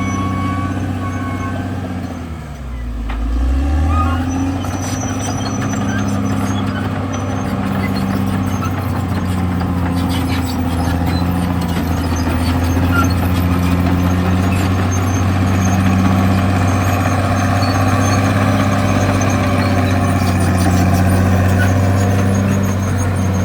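Caterpillar D6R XL bulldozer's diesel engine running steadily. About two to three seconds in, its pitch drops sharply and climbs back up.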